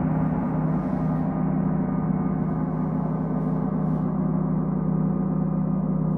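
Gong played for a sound bath: a steady, sustained low drone of many overlapping tones that keeps ringing without a break.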